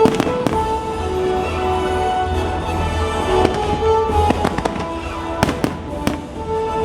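Fireworks bursting with sharp bangs and crackles over an orchestral show soundtrack played through loudspeakers, a cluster of reports about five and a half to six seconds in.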